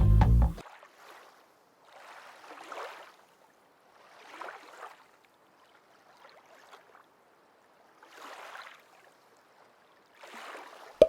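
Small waves washing against a boat's hull, a soft swish every couple of seconds.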